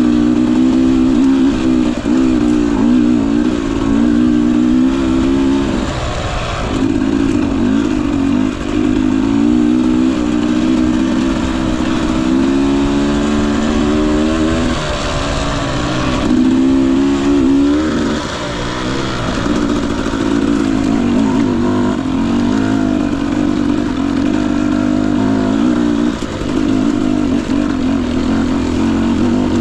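Single-cylinder two-stroke engine of a 2021 Husqvarna TE250i TPI dirt bike running under a wavering throttle while trail riding, its pitch rising and falling, with brief lifts off the throttle every few seconds.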